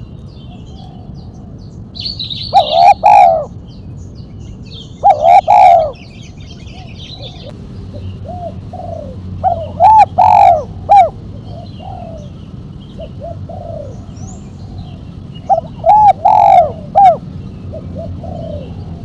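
Spotted dove (tekukur) cooing in the 'mercik' style with one sharp 'kuk' note, in four phrases of a few notes each, spaced several seconds apart. Faint chirps of small birds sound between the phrases.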